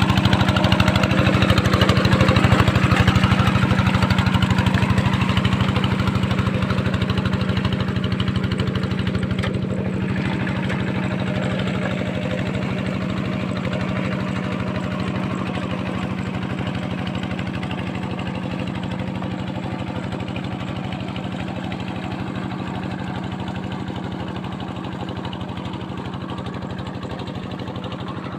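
Diesel tractor engine running steadily with a rapid, even firing beat, growing gradually fainter as it works the field.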